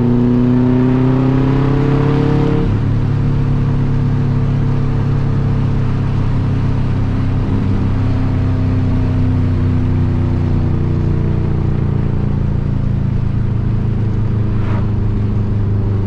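2004 Subaru Impreza WRX STI turbocharged 2.5-litre flat-four engine, heard through a loud aftermarket cat-back exhaust, pulling with its pitch rising for about two and a half seconds. The pitch then drops abruptly at an upshift, and the engine settles into a steady cruise, with a gentle rise and fall in pitch midway.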